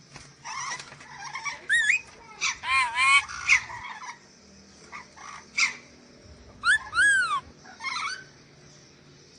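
Nuri dora, a Sulawesi parrot, giving short, shrill, arched calls in clusters of a few notes, separated by brief pauses.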